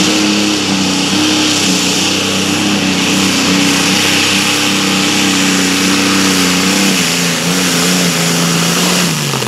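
A competition pulling vehicle's engine running at high, steady revs under load, with a rough rushing noise over it. The pitch sags a little about two-thirds through and drops off sharply near the end as the throttle comes off.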